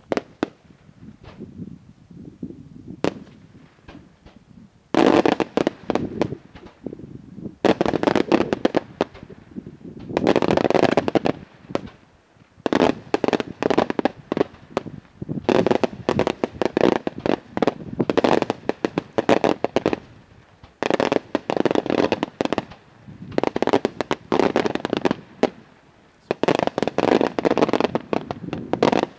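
Daytime aerial fireworks display: after a few scattered cracks, volleys of rapid, densely packed bangs and crackling from shells bursting overhead. The volleys come in waves of a few seconds each, with short lulls between.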